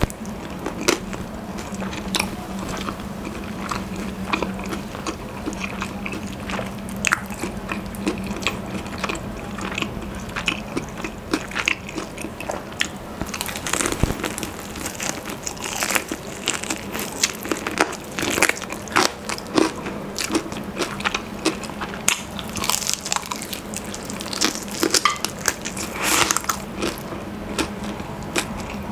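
Close-miked bites and chewing of crispy Popeyes fried chicken: irregular sharp crunches and crackles of the fried breading, with wet mouth sounds in between.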